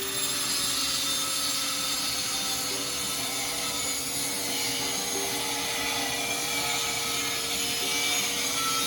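Angle grinder grinding metal: a steady hiss of the wheel against the steel over the motor's whine, which sinks slightly in pitch under load.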